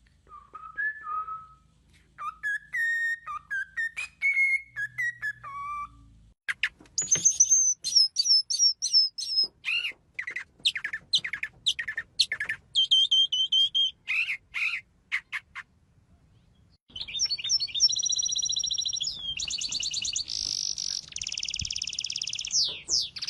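Songbirds calling in turn: first a few seconds of clear, pitched whistled notes, then a long run of quick, sharp chirps, a brief quiet gap, and near the end a dense, continuous high twittering.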